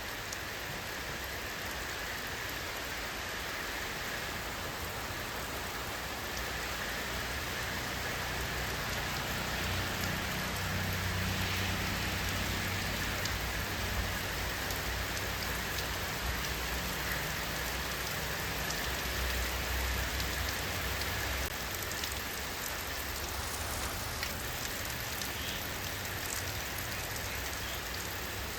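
Steady rain falling on surfaces, an even hiss of many drops with fine ticks of individual drops. A low rumble swells about ten seconds in and fades again after about twenty.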